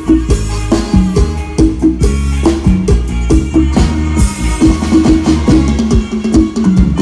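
Loud amplified band music: a drum kit keeping a fast, steady beat over heavy bass.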